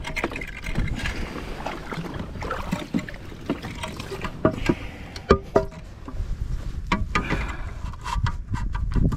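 Knocks, clicks and rattles of gear being handled on a fishing kayak, some with a short hollow ring, over a low wind rumble on the microphone.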